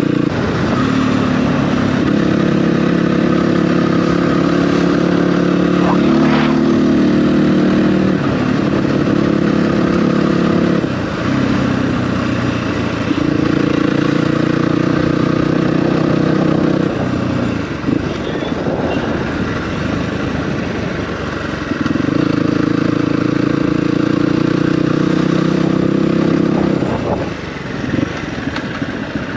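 Dirt bike engine running while riding, held at a steady throttle for several seconds at a time and easing off in between, three times.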